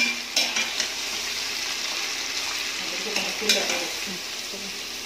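Sliced onions and green chillies sizzling steadily as they fry in oil in an aluminium pressure-cooker pan, stirred with a metal slotted spoon. A couple of sharp scrapes of the spoon on the pan come about half a second and three and a half seconds in.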